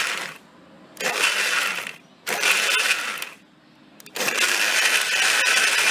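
Countertop blender pulsed on and off, chopping a marinade of a whole orange with its skin and an egg in its shell: a run that stops shortly in, two short pulses of about a second each, then a longer steady run from about four seconds in.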